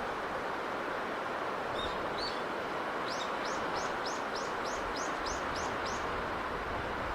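A bird singing a run of about ten quick repeated high notes, around four a second, after a couple of single chirps, over a steady rushing background noise.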